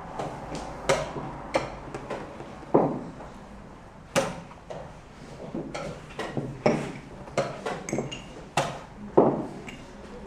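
Chess pieces being set down on the board and chess-clock buttons pressed in quick succession: about a dozen sharp, irregular knocks.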